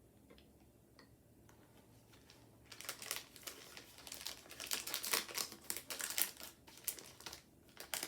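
Plastic snack wrapper crinkling and rustling as it is handled, starting about three seconds in with a dense run of sharp crackles.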